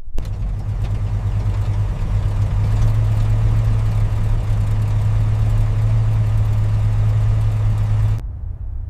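Engine idling with a steady low hum. It starts suddenly, drops away sharply about eight seconds in, and a quieter hum carries on briefly after that.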